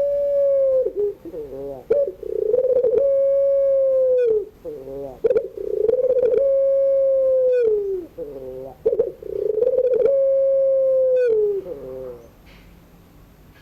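Puter pelung, a Barbary dove bred for its long call, cooing again and again: each coo opens with a quick wavering run of notes, then holds one long steady note that drops away at the end. The calls stop near the end.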